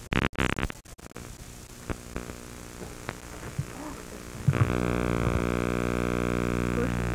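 Crackling dropouts for about a second, then a faint hum, and about four and a half seconds in a steady, pitched mechanical drone starts and holds.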